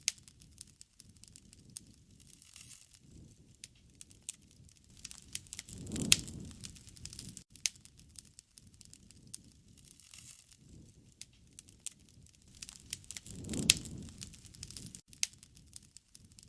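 Wood bonfire crackling, with sharp pops scattered irregularly throughout over a soft steady hiss. A low rushing swell rises and fades twice, about six seconds in and again about thirteen seconds in.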